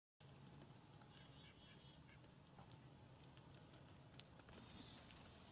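Faint birds chirping: a short trill of high notes near the start and another about four and a half seconds in, over a faint low hum.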